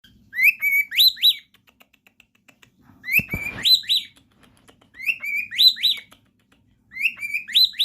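A pet bird whistling the same short phrase of rising notes four times, about every two seconds. A low thud about three seconds in.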